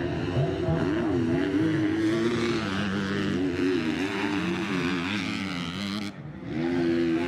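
Several motocross motorcycle engines running and revving together, their pitches rising and falling, with a brief lull about six seconds in.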